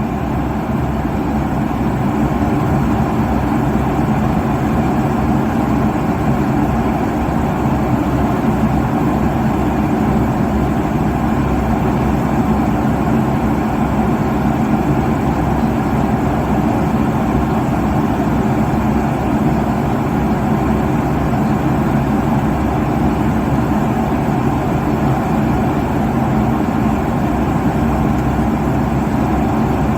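Airliner cabin noise at cruising altitude: a steady, even wash of engine and airflow noise, heaviest in the low range.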